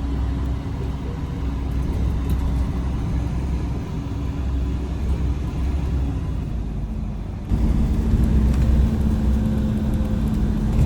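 Steady low rumble with a faint steady hum, like a vehicle running, stepping up suddenly in level about seven seconds in.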